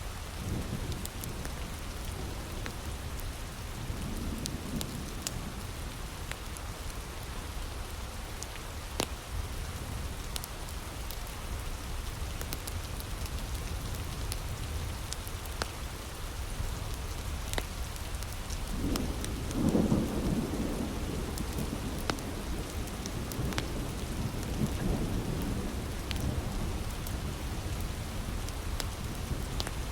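Heavy rain falling steadily, with sharp crackles and pops of a wood fire scattered through it. A low rumble of thunder swells about two-thirds of the way in.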